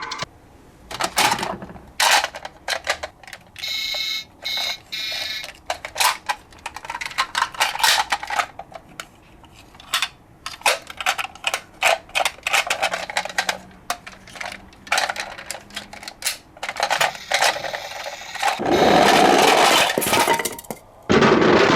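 Small die-cast toy cars clattering and clinking against each other and their container, a run of sharp clicks and knocks, with a brief ringing tone a few seconds in and a longer stretch of continuous rattling near the end.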